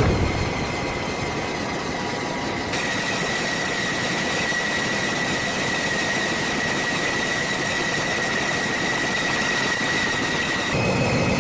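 A machine running steadily: an even hiss with a thin high whine that comes in about three seconds in and steps slightly higher near the end.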